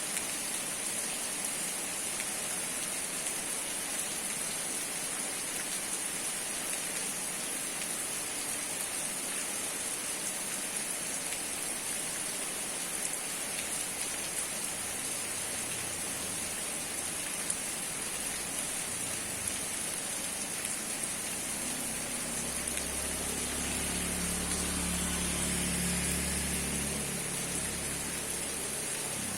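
Steady rain falling, an even hiss of drops on surfaces. In the second half a low hum joins in, swelling a little louder near the end before fading.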